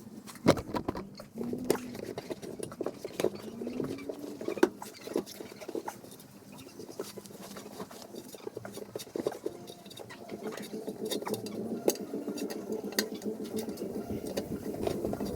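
Irregular knocks, clicks and clatter of hand work, with a few short squeaks in the first four seconds and a steady low hum setting in about two-thirds of the way through.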